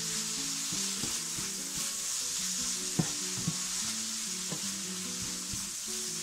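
Onion-tomato masala with spice powders sizzling in a nonstick frying pan while a wooden spatula stirs it. A couple of sharp taps of the spatula on the pan come about three seconds in, with quiet background music underneath.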